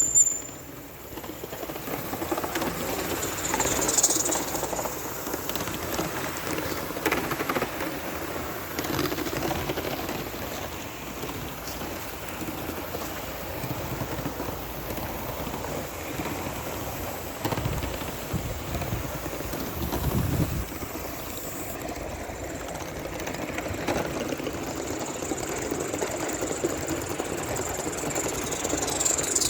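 Live-steam model locomotive running on the track, a steady hiss of steam and exhaust that swells louder a couple of times.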